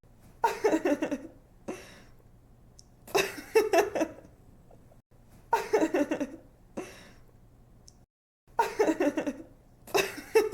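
A young woman giggling in short bursts, about four in all and each followed by a quick breath in: the same short laugh repeating as a loop every two to three seconds.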